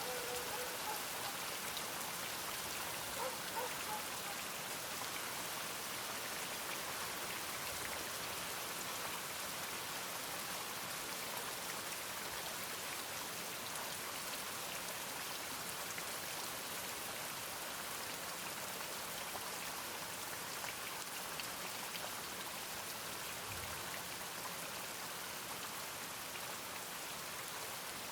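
Steady rain falling, an even, dense patter with no let-up.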